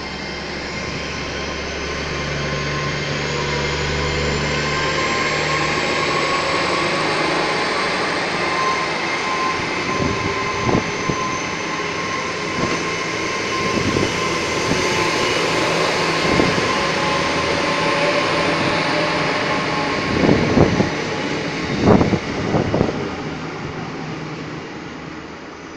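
Great Western Railway Hitachi Intercity Express Train passing along the platform and pulling away on its underfloor diesel engines: a steady rumble and whine that builds, holds, then fades as it departs. A run of sharp clunks comes through the middle, the loudest cluster a few seconds before the end.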